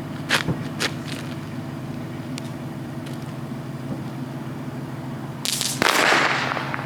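A steady low mechanical hum, with a few sharp clicks in the first second and a hissing burst lasting about a second near the end.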